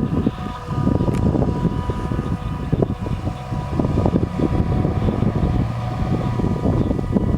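JCB 3230 Fastrac tractor's Cummins diesel engine running steadily under load, a deep rumble with a thin, steady whine above it.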